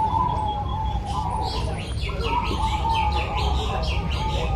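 Zebra doves (perkutut) cooing in a wavering tone, with many quick high chirps over them and a steady low background rumble.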